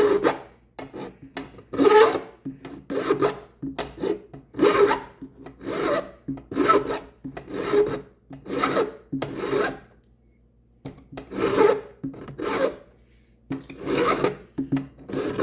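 Nicholson Handy File rasping in push strokes, about one a second, taking the sharp cut edge off a metal hose clamp. There is a short pause about ten seconds in.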